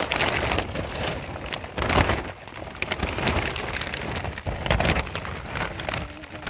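Rain falling, with irregular knocks and scrapes over it; the loudest knock comes about two seconds in.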